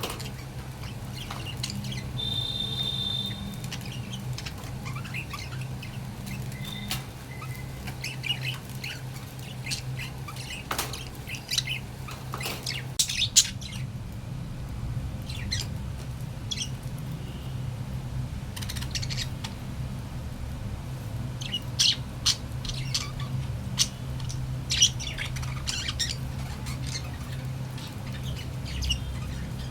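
Budgerigars chirping and squawking in short, scattered calls, with a brief held whistle about two seconds in, over a steady low hum.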